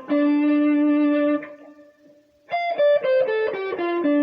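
Guitar playing a blues lick. A held note fades out, then after a brief gap comes a quick run of notes descending the minor pentatonic scale, landing on a sustained low root note.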